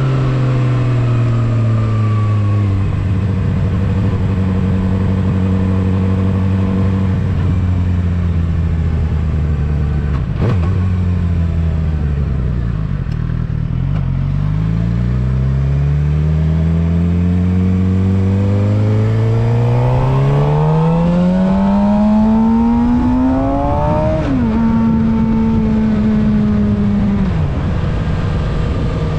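Suzuki GSX-R750 inline-four motorcycle engine heard from the rider's seat. It holds a steady speed, slows down, then revs up smoothly and drops sharply in pitch at an upshift, settling into a steady run near the end.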